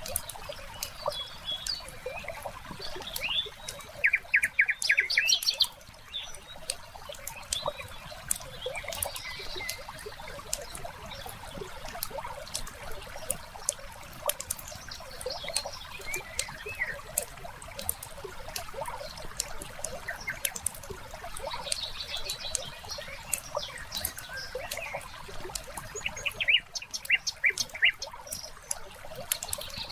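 Wood fire crackling with irregular pops throughout, with songbirds chirping over it; a quick series of chirps comes about four seconds in and again near the end.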